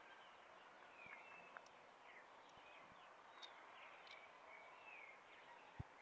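Faint chirps and short sliding calls of several small birds, coming every second or so, with a soft low thump near the end.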